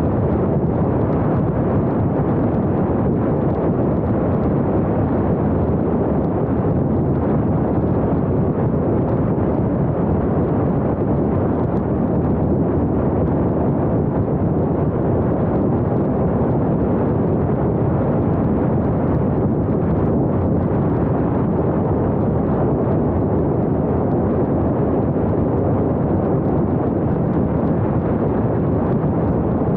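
Steady rushing wind and road noise on a small action camera's microphone while driving, dense and even with no engine note standing out.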